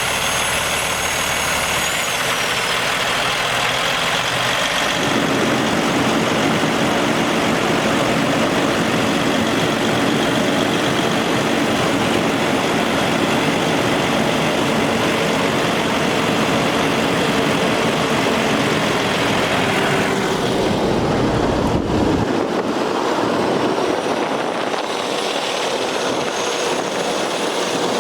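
Heavy diesel truck engine, the Cummins ISX of a dump truck, running steadily. Its low rumble thins out about twenty seconds in.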